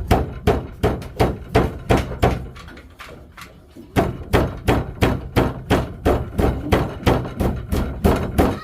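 Repeated knocks or blows, about three a second, in two runs with a short lull about three seconds in.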